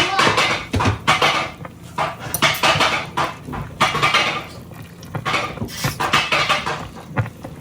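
A utensil clinking and scraping against a slow cooker's crock as the food inside is checked, in short irregular strokes.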